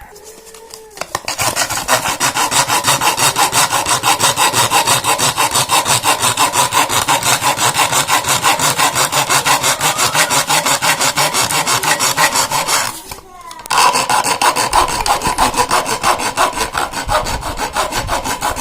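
A hacksaw blade rasped quickly back and forth across old hard plastic, grinding it into fine plastic powder. It starts about a second in, stops briefly about 13 s in, then carries on.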